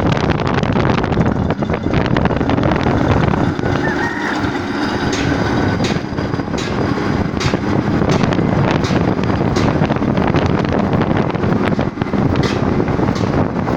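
Steady, loud rumble of heavy cargo-handling machinery working, with scattered knocks and clanks and wind buffeting the microphone.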